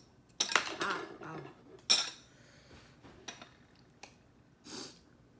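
Eating utensils clinking and scraping against dishes at a meal table. There is a cluster of clatter early on, one sharp loud clink about two seconds in and a few lighter taps after it, then a short breathy sound near the end.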